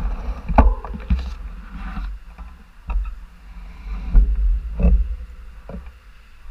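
Wind rumbling on the microphone of a camera carried on a moving bicycle, with about six sharp knocks and rattles spread through, dying down near the end.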